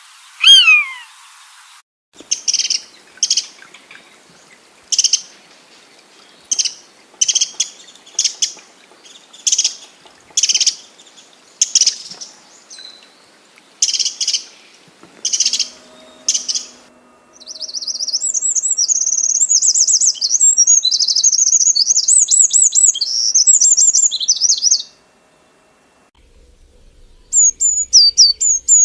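Bird calls from several different birds in turn. First comes one falling call, then a run of about fifteen short sharp chirps spaced irregularly, then a long fast high warble lasting about seven seconds, and near the end a quick series of high notes.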